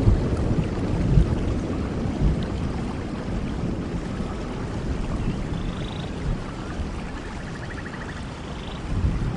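Steady rainforest rain falling, with the low rumble of thunder dying away in the first second. A few faint short animal calls sound in the second half, one a quick trill.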